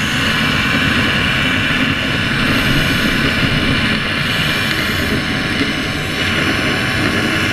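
Stingray underwater net cleaner running against an aquaculture net: a steady, loud churning machine-and-water noise with a low rumble, heard underwater.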